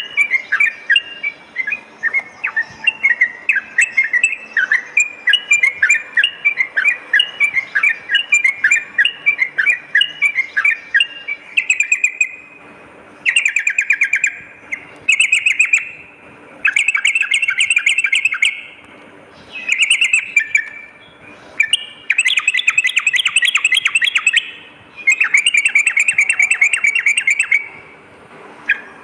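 Yellow-vented bulbul (trucukan) singing. For the first ten seconds or so it gives fast chattering notes, then a run of quick bubbling trilled phrases, each one to two seconds long, with short pauses between.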